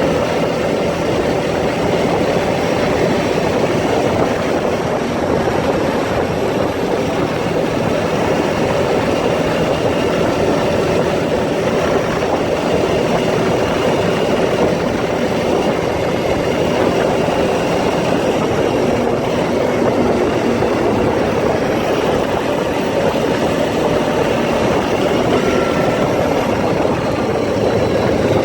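Four-wheeler ATV engine running steadily under way, a continuous loud drone with no pauses.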